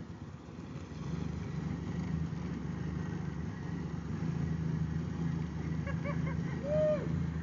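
Stock Jeep Wrangler's engine running at a steady speed, getting louder about a second in, with the Jeep stuck deep in a mud hole.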